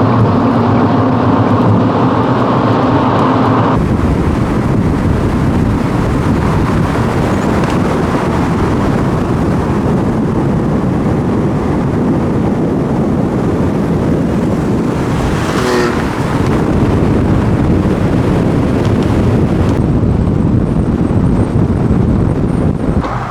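Car on the move: a steady engine hum for the first few seconds, then an abrupt change to a dense, even rush of engine and road noise.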